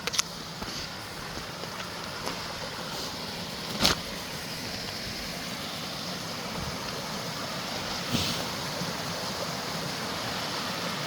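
Rushing water of a mountain creek, a steady hiss that slowly grows louder, with three short sharp knocks, the loudest about four seconds in.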